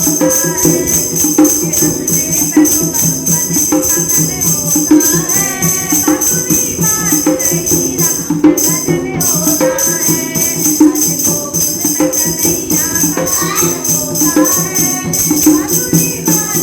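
Women singing a Krishna bhajan to a steady jingling percussion beat, with the voice phrases coming and going over the continuous rhythm.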